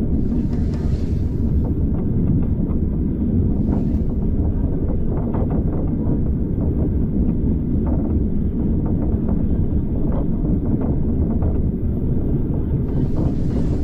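Steady low rumble of a railway carriage running along the track, with faint scattered clicks of the wheels and running gear.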